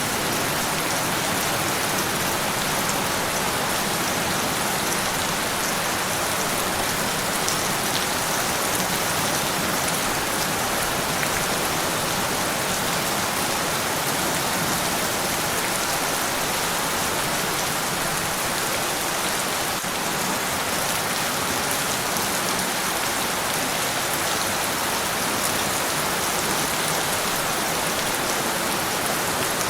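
Steady rain falling on a surface, an even hiss of many drops with a few individual drop ticks, unchanging throughout.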